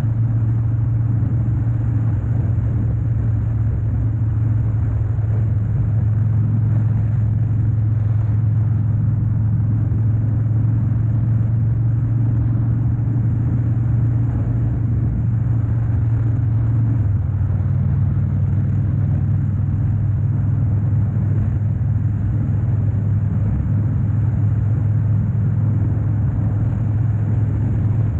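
Harley-Davidson Dyna Wide Glide's 103-cubic-inch V-twin running steadily while riding, heard from on the bike; its low note drops a little about two-thirds of the way through.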